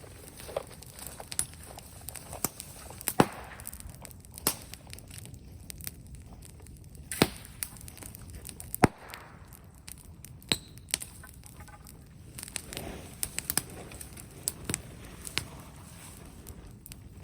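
Bonfire of brushwood crackling, with sharp irregular snaps and pops, two of them much louder than the rest.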